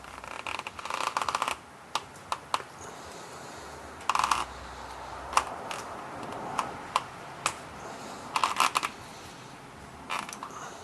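Spin-on oil filter being wound onto the tractor's engine: short bursts of rapid light clicking and rattling, about four times, with single sharp clicks in between.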